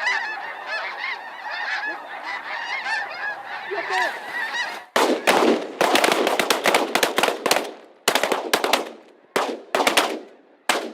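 A large flock of snow geese calling all together, a dense steady clamour of honks. About five seconds in, a rapid volley of shotgun fire from several hunters breaks out, more than a dozen overlapping shots over about six seconds, with the geese still calling between them.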